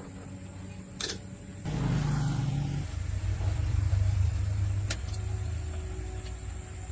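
Restored old truck engine starting up, preceded by a click: it fires a little under two seconds in with a higher first burst, then settles into a steady low-pitched run.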